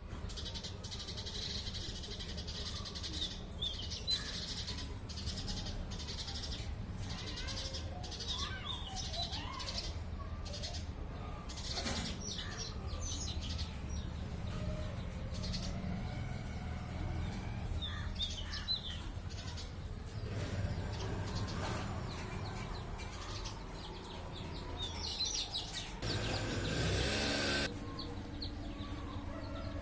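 Small birds chirping in short, scattered calls over a steady low hum, with a loud burst of noise lasting about a second and a half near the end.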